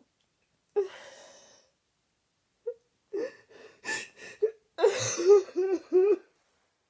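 A person sobbing: a sharp gasping breath in, then halting, catching cries that come faster in a run of three or four near the end.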